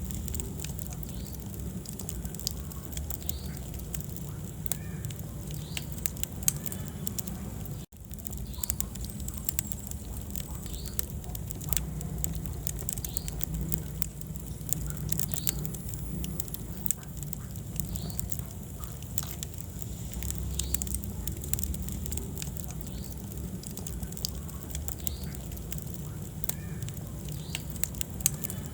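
Wood fire crackling in a fireplace: frequent small sharp pops and snaps over a steady low rumble of the flames. The sound cuts out for an instant about eight seconds in.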